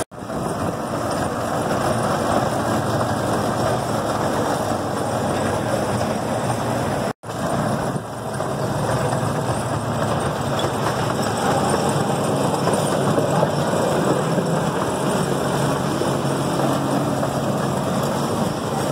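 C.P. Huntington miniature park train running steadily along its track, heard from an open passenger car: a continuous low engine hum under a wash of rolling and wind noise. The sound drops out for an instant about seven seconds in.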